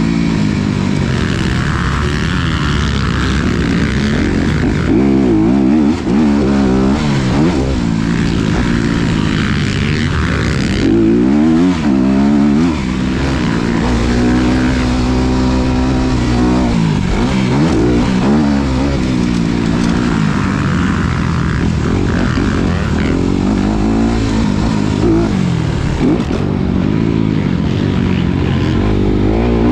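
Honda CRF250RX dirt bike's single-cylinder four-stroke engine being ridden hard, revving up and down over and over as the rider opens and shuts the throttle.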